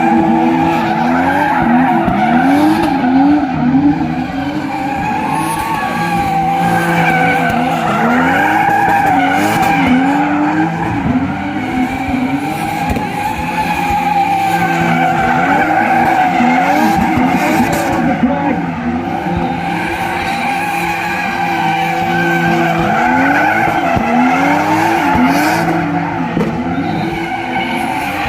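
Drift car's engine revving up and falling back over and over as it slides, with tyres squealing against the tarmac. A steady low hum runs underneath.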